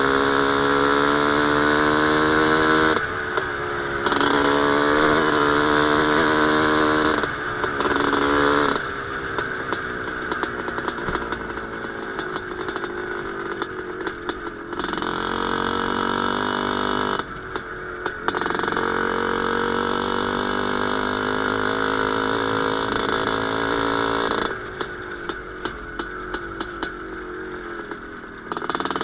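Single-cylinder two-stroke IZh Planeta Sport engine in a CZ 125/516 motorcycle running, its pitch climbing three times with short breaks in the first nine seconds, then running steadier at a lower pitch.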